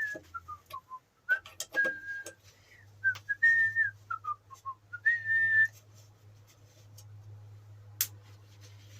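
A person whistling a short tune: held high notes that fall away in steps, twice over, stopping about six seconds in. A steady low hum runs underneath, and there is one sharp click near the end.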